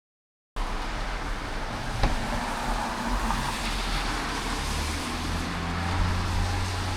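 Road traffic noise: a steady rushing hiss that starts abruptly, joined about halfway through by the low steady hum of a motor vehicle. A single sharp click sounds about two seconds in.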